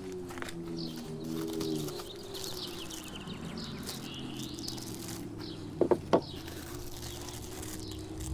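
Birds chirping, with clear plastic packaging crinkling as it is handled. Two short, loud sounds come close together about six seconds in.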